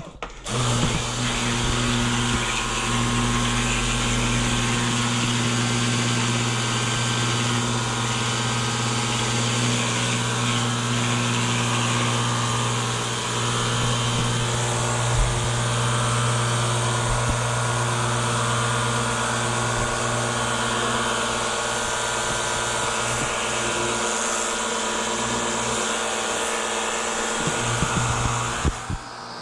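Ryobi One+ 18V cordless pressure washer running: a steady motor-and-pump hum over a hiss. It starts just after the beginning and cuts out near the end.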